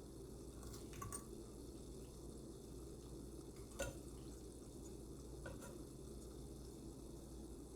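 A few faint, brief clinks of dishes and utensils while food is served, the loudest about four seconds in, over a steady low room hum.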